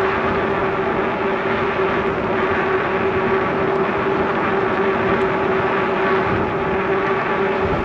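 Steady rushing noise of a moving bicycle ride, wind and rolling tyres on the camera's microphone, with a constant hum running under it.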